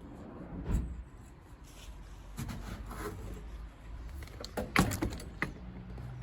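Metal boiler parts and tools being handled during dismantling: scattered clicks and knocks, the loudest a sharp knock near the end.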